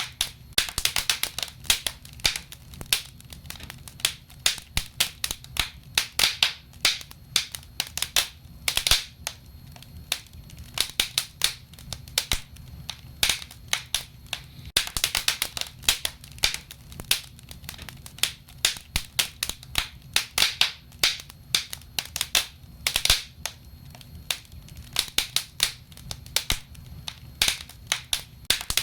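Wood fire burning in a fireplace: logs crackling and popping irregularly, several sharp snaps a second in flurries, over a low steady rumble.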